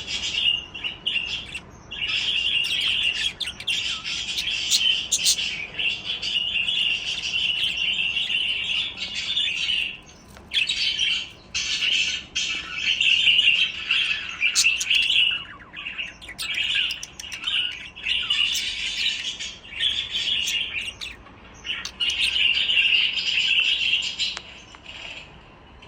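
Budgerigars chirping and chattering continuously, a busy run of warbling calls with scratchy clicks, broken by a few brief pauses.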